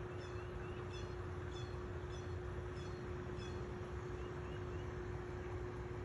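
Steady background rumble with a constant low hum. Over it, a small bird gives short, high chirps about every 0.6 s through the first half, then two fainter ones.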